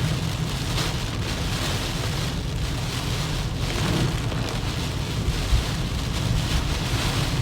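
Heavy typhoon rain pouring down, with wind and a steady low rumble underneath.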